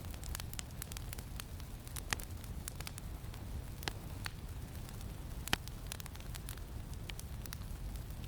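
Campfire crackling, with frequent small snaps and a few louder pops, over a steady low rumble of wind.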